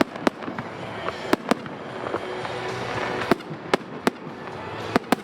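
Fireworks going off in a display: about nine sharp bangs at irregular intervals, some in close pairs, with music playing underneath.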